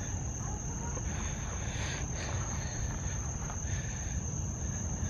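Night insects, crickets, giving a steady high-pitched drone over a low rumble.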